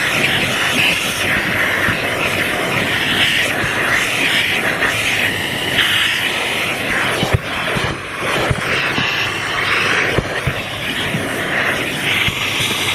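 Vacuum cleaner running with a steady, loud rushing whine that shifts in pitch as the nozzle is worked over the car's interior, with a few knocks of the nozzle against surfaces around the middle.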